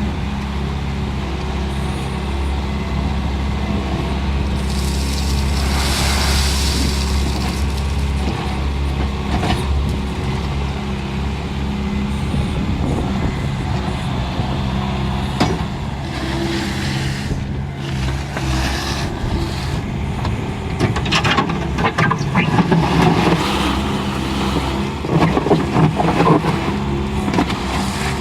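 Bobcat skid steer's diesel engine running steadily, with louder bursts of rougher noise over it around a quarter of the way in and again near the end.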